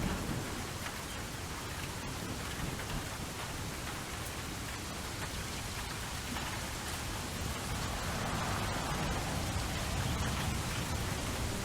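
Steady rain falling, as a continuous hiss of drops, with the tail of a thunder rumble dying away at the very start.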